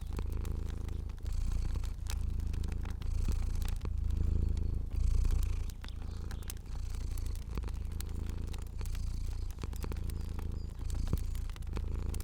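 A domestic cat purring steadily, a deep rumble swelling and fading with each breath about once a second. Scattered sharp crackles of a fire pop over it.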